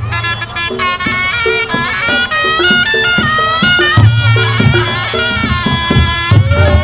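Reog Ponorogo music: a slompret, the reed trumpet, playing a wavering melody over gamelan percussion, with heavy low strokes about four seconds in and again near the end.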